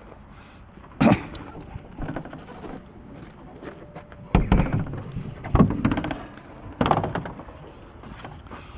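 A series of about five loud thuds and clatters, a second or so apart, from junk being handled and knocked about.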